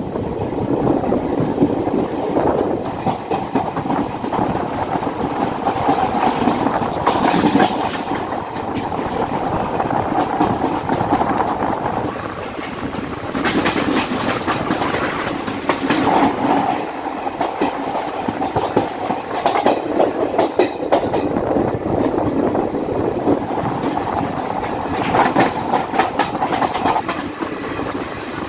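Train running at speed on the track: a steady rumble of wheels on rail, with the clickety-clack of wheels over rail joints coming and going.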